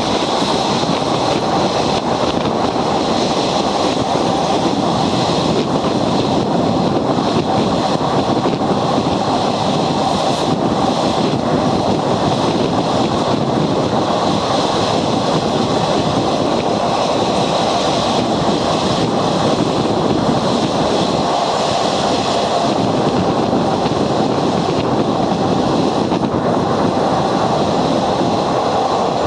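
Train running, a loud steady noise with no breaks.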